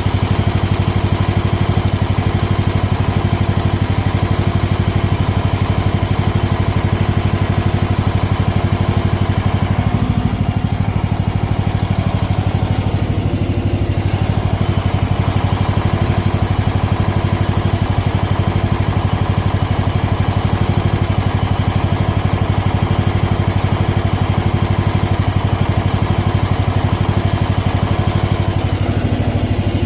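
MX-12 mini excavator's engine running steadily during a test run of the freshly resealed hydraulic track motor, to see whether the new seal leaks.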